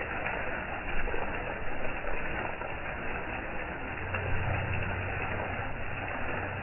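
Steady hiss of falling rain, with a low hum coming in about four seconds in.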